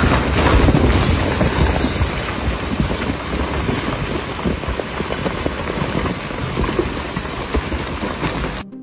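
Strong wind buffeting the microphone, a rushing hiss over a heavy low rumble, in the gusty storm around a waterspout. It cuts off suddenly near the end.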